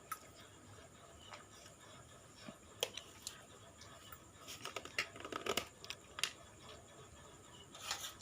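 Faint kitchen handling sounds: scattered light clicks and knocks of a utensil against a cooking pot, with a denser clatter in the middle and another brief one near the end.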